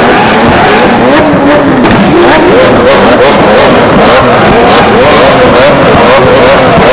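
Several Lamborghini engines revving over and over at once, each blip rising sharply in pitch and falling back, overlapping into a continuous very loud din.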